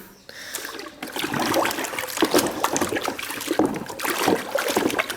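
Water splashing and trickling in irregular small splashes as a toy is washed by hand.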